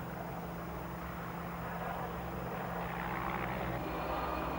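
Helicopter engine and rotor running steadily, with a low hum under a hiss, growing slightly louder toward the end.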